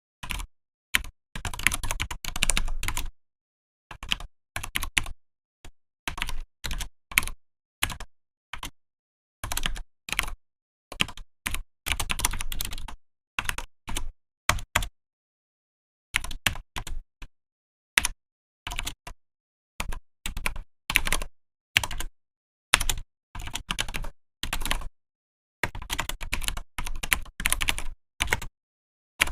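Typing on a Vortex PKX-1040 Type F mechanical keyboard: runs of rapid keystrokes broken by short pauses.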